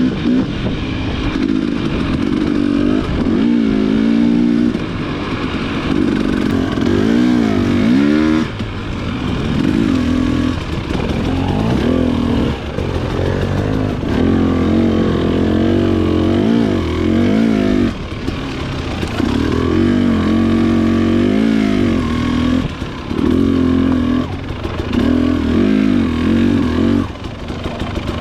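Dirt bike engine running under throttle while riding, its pitch repeatedly climbing and falling as it revs up and shifts, with brief drops where the throttle is rolled off a few times.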